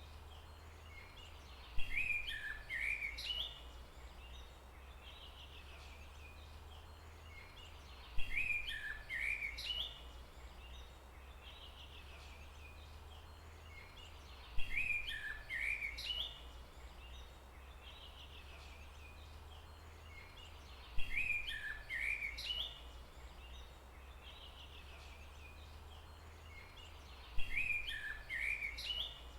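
A songbird's short, twittering phrase of quick chirps, repeated in the same form five times, about every six seconds. A steady low rumble runs underneath.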